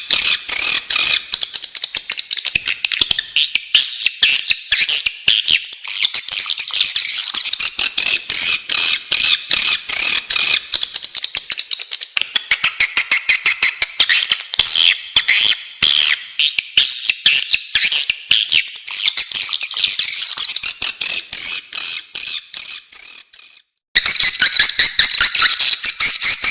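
Recorded swiftlet calls: a dense, rapid twittering chatter, the lure call that swiftlet hunters and farmers play to draw swiftlets into a nesting house. The chatter fades out about 23 seconds in and starts again loudly a second later.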